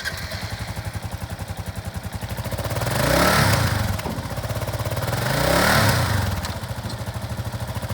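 2017 Kawasaki KLR650's 652 cc single-cylinder four-stroke engine idling, blipped twice, revving up and back down about three seconds in and again about five and a half seconds in.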